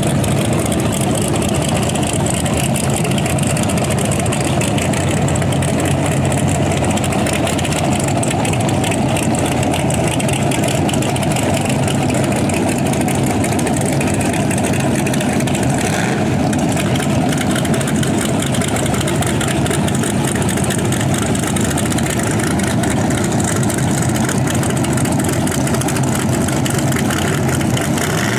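Chevy S10 drag truck's V8 engine idling steadily and loudly at the starting line.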